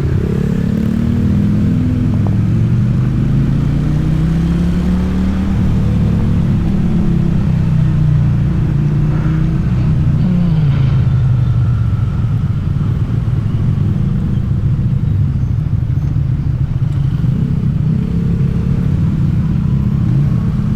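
Motorcycle engine under way. Its pitch climbs over the first several seconds, drops sharply about ten seconds in, then settles into a steadier, lower run.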